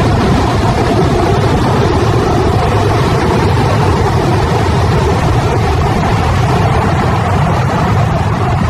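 Debris flow of water, mud and boulders rushing down a mountain stream channel: a steady, loud rush of water over a deep rumble of rolling rock.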